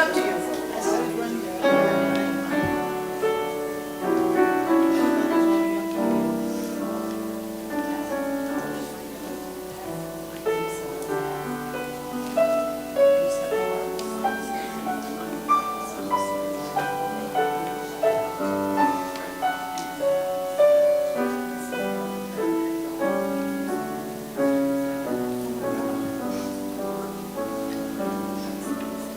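Solo piano music, with notes struck and left to ring as they fade.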